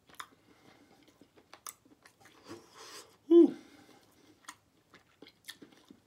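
A person chewing soft smoked turkey leg meat with wet mouth clicks and smacks. About three and a half seconds in, the loudest sound: a short hum of enjoyment that falls in pitch.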